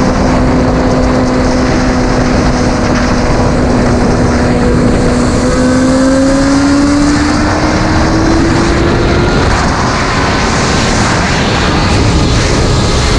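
Suzuki GSX-R sportbike riding at speed, with heavy wind rush over the microphone. The engine note holds steady, then climbs in pitch from about five seconds in as the bike accelerates, and sinks back under the wind noise after about nine seconds.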